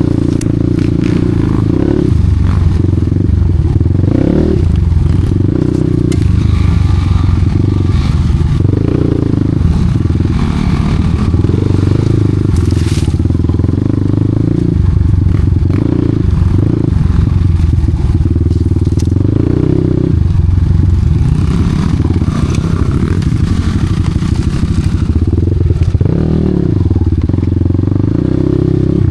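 Off-road dirt bike engine running under load, the throttle opened and closed so the revs rise and fall repeatedly, with occasional sharp knocks.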